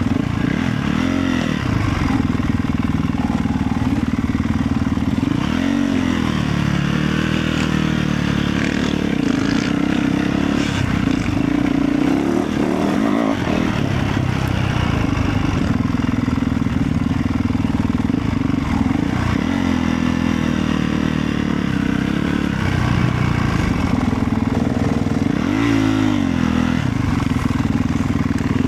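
Motorcycle engine running continuously under way, its pitch swinging up and back down briefly a few times as the throttle is opened and closed.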